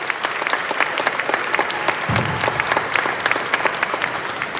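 Audience clapping after a song at a school concert: dense, overlapping hand claps that swell and then begin to fade near the end.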